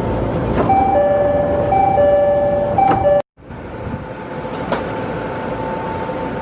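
Electric commuter train running, a steady rumbling ride noise. For the first few seconds a two-note electronic tone sounds over it and repeats, then the sound cuts off abruptly and the train's steady running noise resumes.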